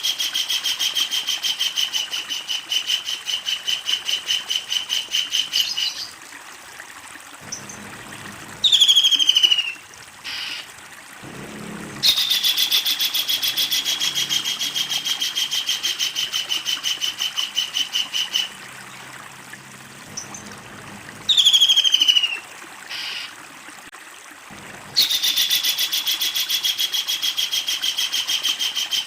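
Kingfisher (tengkek udang) calling: a long, rapid, even rattling trill that lasts about six seconds and comes three times. Between the trills are a few loud, downward-slurred call notes.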